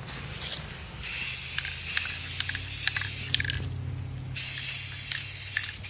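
Aerosol can of red spray paint with primer spraying in two long hissing bursts, the second starting about four seconds in, with a short puff before them.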